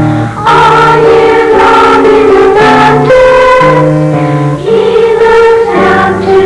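A children's school choir singing a Christmas song in held notes, with instrumental accompaniment.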